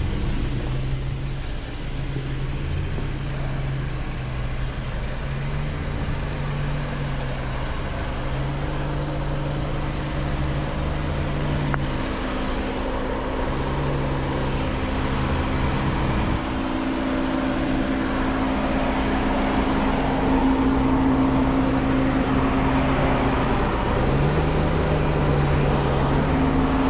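Jeep Wrangler engine running at low revs under load as it crawls over rocks, its pitch stepping up and down again and again as the throttle is fed on and eased off.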